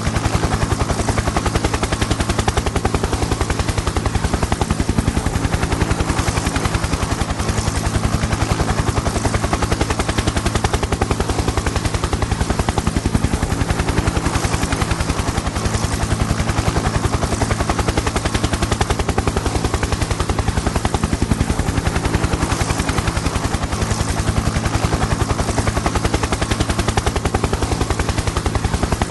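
Helicopter in flight, its rotor blades chopping in a fast, steady beat over a steady low engine drone.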